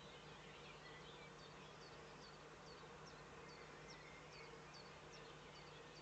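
Faint distant birdsong: short high chirps that drop in pitch, about two a second, over a steady low hum and hiss.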